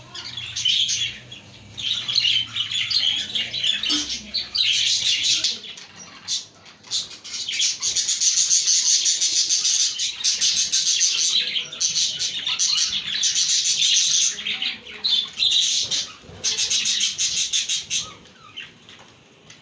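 A flock of budgerigars chirping and warbling in busy bursts broken by short pauses, quieter near the end.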